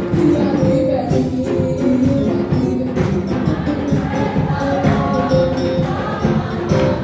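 Group singing with a tambourine and other percussion keeping a steady beat, like gospel praise singing.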